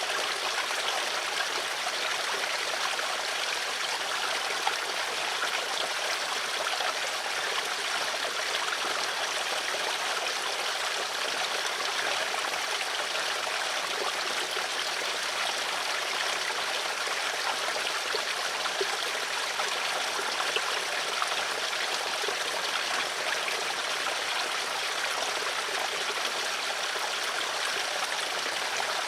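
Water flowing in a stream, a steady rushing and trickling with small splashy flickers and no pauses.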